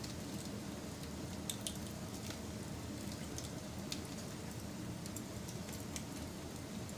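Wood fire burning, a steady low hiss with scattered sharp crackles and pops from the burning wood.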